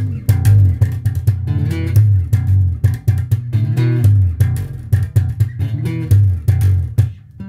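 Electric bass guitar played clean, without distortion, in a slap style: sharp slapped notes with slides down the neck, repeated as a riff.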